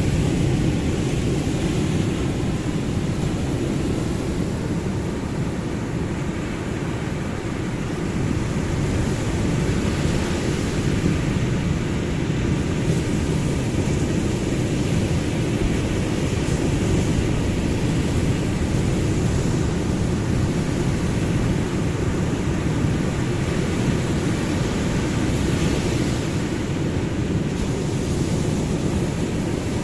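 Ocean surf: a steady, deep rumbling wash of waves with only slight swells in level.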